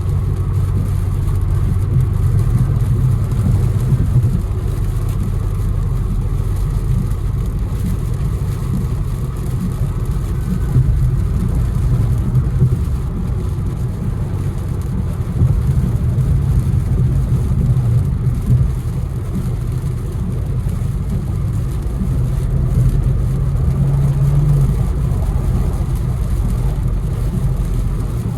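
Infiniti Q60 engine and road noise heard from inside the car while driving. It is a steady low rumble whose engine note rises and falls with the throttle several times.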